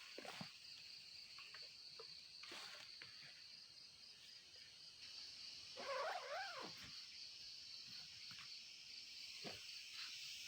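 A steady, finely pulsing high insect chorus of the evening, with scattered faint clicks. About six seconds in, a single wavering animal call rises and falls briefly over it.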